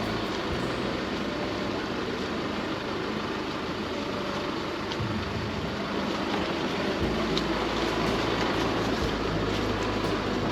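Chevy Colorado ZR2 pickup driving over a rough gravel trail: steady tyre and road rumble with scattered small ticks of stones, growing a little louder about seven seconds in.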